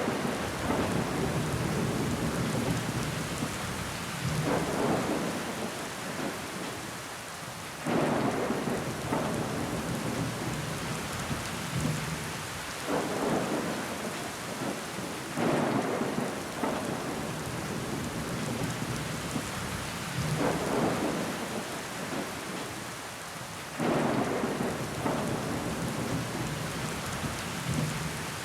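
Steady rain pattering against window glass, with water running down the pane. Louder surges come in abruptly every four to five seconds and die away.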